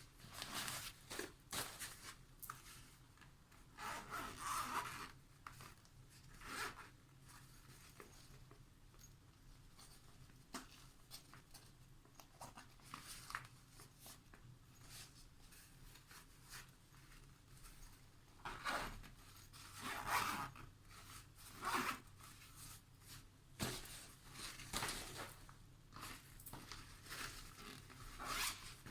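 Zippers on bags and cosmetic pouches being pulled open and shut in short rasping runs, with fabric rubbing in between. The runs come in clusters, with a long lull in the middle.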